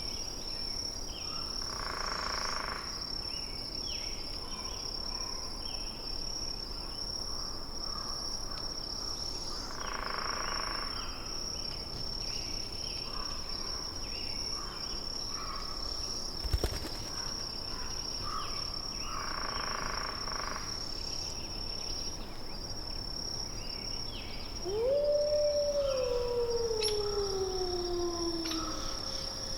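Forest ambience: a steady high cricket-like trill with scattered short bird chirps, then near the end a wolf howls once, a long call falling in pitch over about four seconds.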